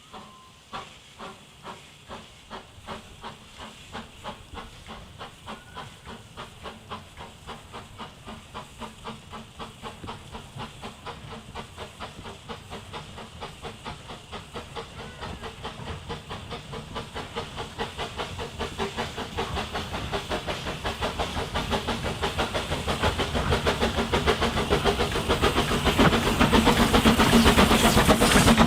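Narrow-gauge steam locomotive working toward the listener: regular exhaust chuffs, about two a second at first and quickening, with steam hiss, growing steadily louder as it draws near.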